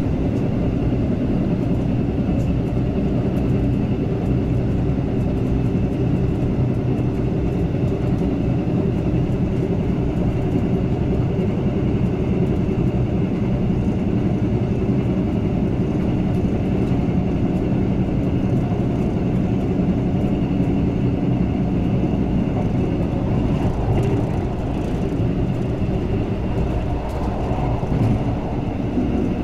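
Saemaeul-ho passenger train running at speed, heard from inside the carriage: a steady rumble of wheels on the rails with a constant hum.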